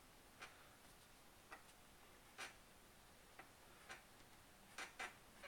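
Faint, irregular clicks and taps of a pencil and drawing tools on paper, about eight of them.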